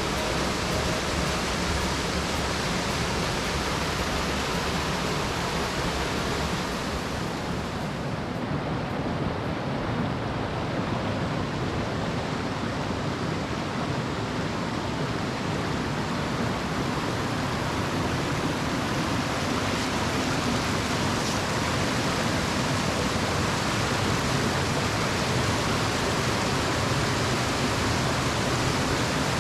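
Waterfall: a steady, loud rush of falling water. The hiss turns duller for a while from about seven seconds in, then brightens again.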